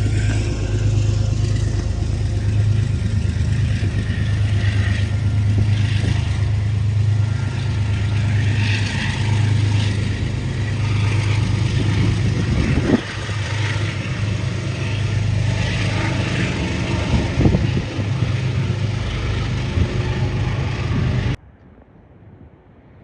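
Passenger train running past close by, a loud steady rumble with a low hum. Two sharp clacks of wheels over the rail come about halfway through and again a few seconds later. The sound cuts off abruptly near the end.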